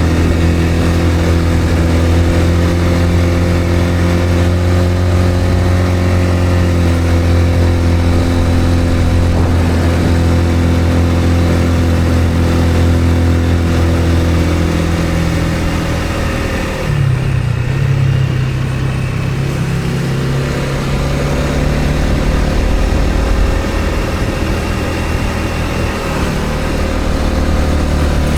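Motor vehicle engine running steadily under way; about two-thirds of the way through the note briefly drops and settles at a different pitch, as with a gear change or slowing, then runs on steadily.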